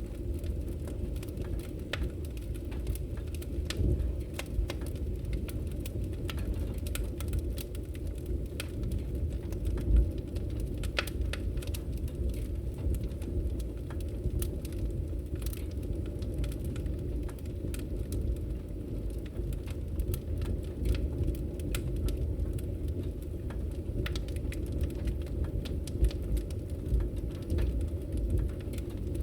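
Wood fire crackling steadily in a fireplace: irregular sharp pops and snaps over a low rumble of the burning logs, with a louder pop about ten seconds in.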